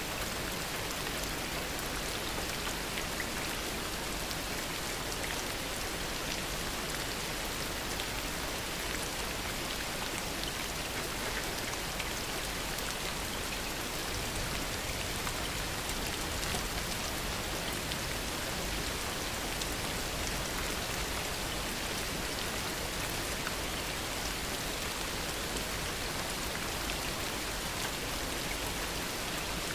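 Steady heavy rain falling, a dense even hiss of drops with fine scattered patters, unchanging throughout.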